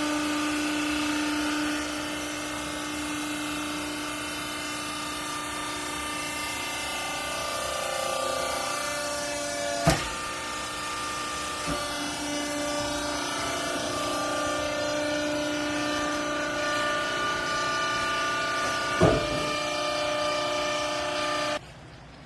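A hydraulic baler's motor and pump running with a steady whine of several tones that shift in pitch partway through. There is a sharp knock about halfway through and another a few seconds before the end. The machine sound then cuts off suddenly near the end.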